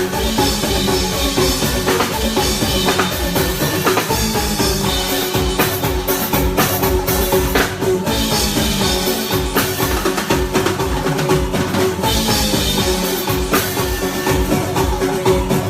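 A live band playing through a PA during a sound check: drum kit with kick, snare and rimshots keeping a steady beat under bass and a held keyboard or guitar note.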